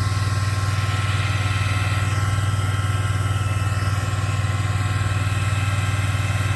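Vehicle engine idling steadily with a fast, even pulse.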